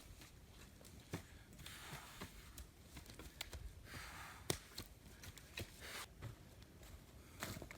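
Faint scraping rustle of a rake drawn through soil and leaf litter, two longer strokes among scattered light clicks and knocks.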